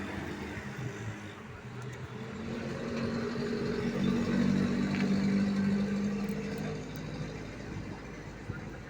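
Steady mechanical hum of a running motor, growing to its loudest mid-way and then fading.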